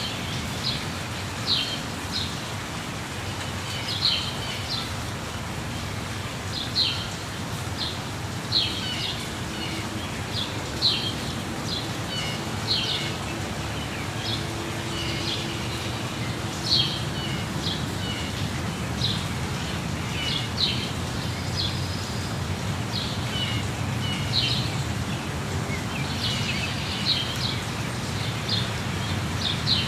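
Waterfall rushing steadily, with birds calling over it in short, high chirps every second or two.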